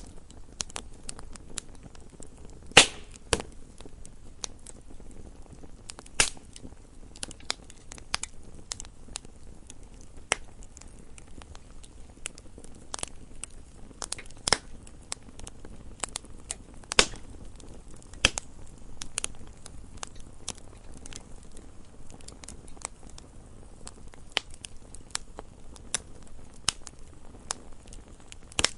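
Wood fire burning in a fireplace, crackling with irregular sharp pops, a few of them louder, over a soft low rustle of the flames.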